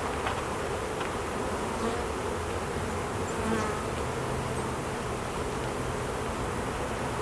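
Many honeybees buzzing around the hives in a steady, dense hum: an agitated, defensive colony, with robbing between the hives under way.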